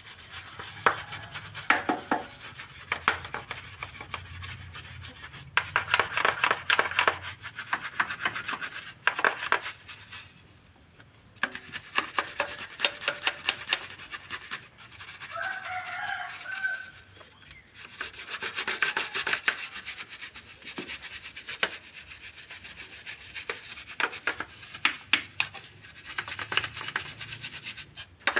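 Rapid back-and-forth rubbing strokes on a hard surface, like scrubbing or sanding, in runs of a few seconds with short pauses between them. A brief squeaky tone comes about halfway through.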